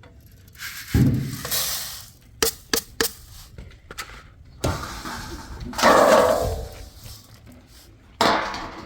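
A series of knocks, thuds and clinks as pots and cooking utensils are handled, with a louder clattering scrape about six seconds in.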